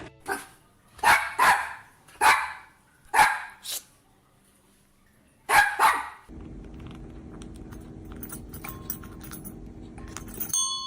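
A dog barking: about eight short, loud barks, several in quick pairs, over the first six seconds. Then a steady low hum with faint clicks.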